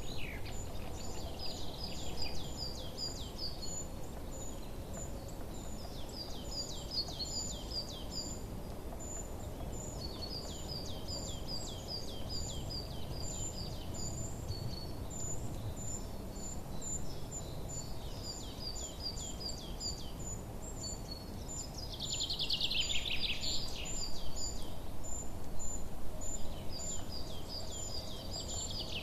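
Songbirds chirping: short runs of quick falling chirps every few seconds over an evenly repeated high note, with a louder bout of chirping about three quarters of the way through. Under it is a steady low background rush of outdoor noise.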